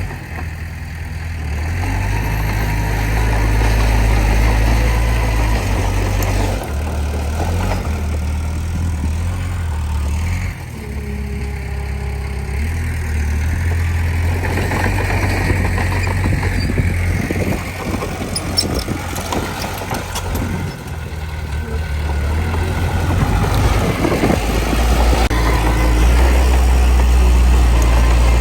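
Diesel engine of a Komatsu D20P bulldozer running and working, its pitch and load shifting every few seconds, with a run of clanks and rattles about halfway through.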